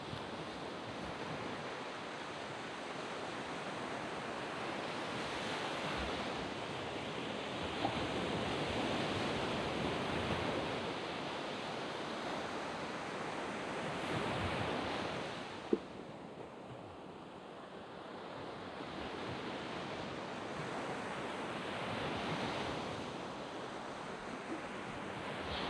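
Sea waves breaking and washing up a sand beach, the surf swelling and easing in long surges, with a quieter lull a little past the middle. A single sharp click about sixteen seconds in.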